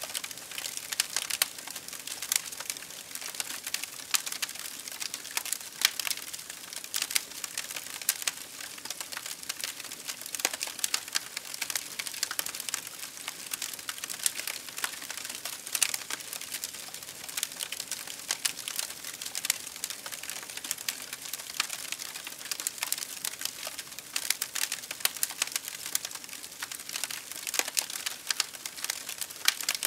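Wood fire crackling and popping steadily: dense, irregular sharp snaps over a soft hiss.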